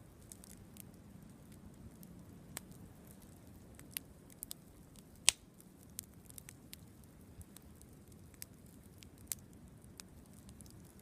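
Campfire crackling: scattered sharp pops and snaps from burning wood over a faint low steady hiss, the loudest pop about five seconds in.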